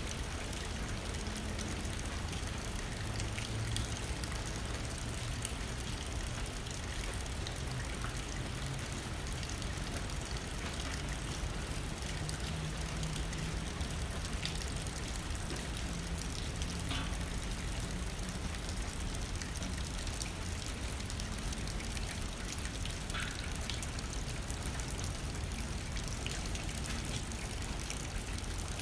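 Steady rain hitting a window pane, with wind blowing under it as a low rumble. Now and then a single drop ticks against the glass.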